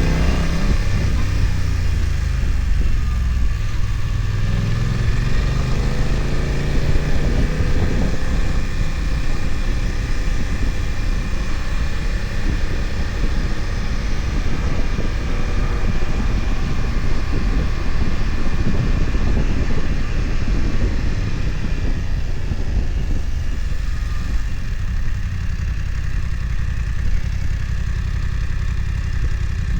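BMW F900XR's parallel-twin engine heard on board. The revs drop over the first few seconds, climb again as the bike accelerates until about eight seconds in, then settle into a steady, rough low running for the rest.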